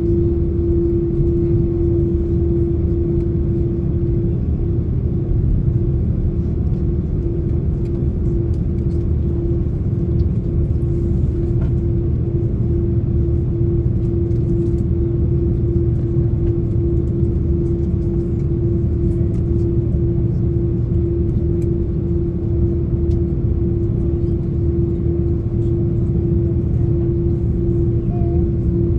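Airbus A330-300 cabin noise: its GE CF6-80 engines and the airflow make a steady low rumble with a constant droning hum, holding an even level without spooling up or down.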